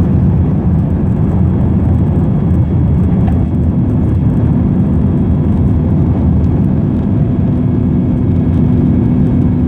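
Airliner taking off: a steady, loud rumble of jet engines and rushing air, with a faint steady hum joining in about four seconds in.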